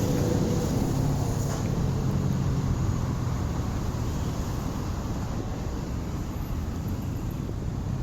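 Wind rumbling on the microphone outdoors, a steady low noise. A faint low hum fades out over the first few seconds.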